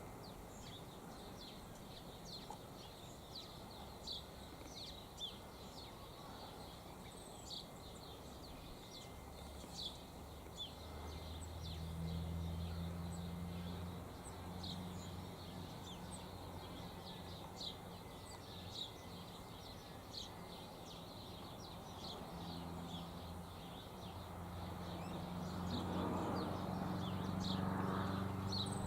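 Birds giving many short, high chirps scattered throughout. A low droning hum swells twice, around the middle and again near the end.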